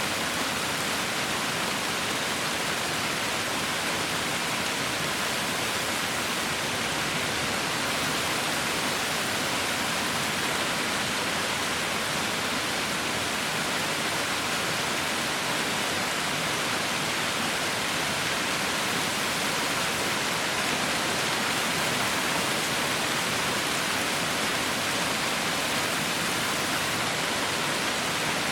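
Heavy rain falling steadily, a dense, even hiss with no thunder or single drops standing out.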